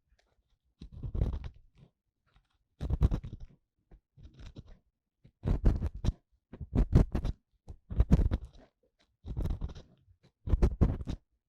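Ear-cleaning tool scraping and crackling inside the ear of a 3Dio binaural dummy-head microphone, close up. It comes in about eight short strokes, roughly one every second and a half.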